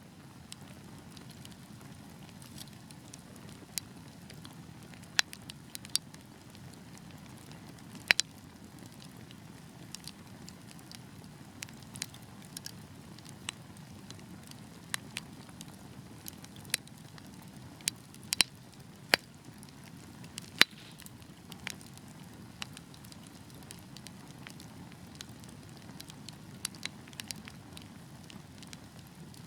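Wood fire burning: a steady low rumble of flames with irregular sharp crackles and occasional louder pops from the burning logs.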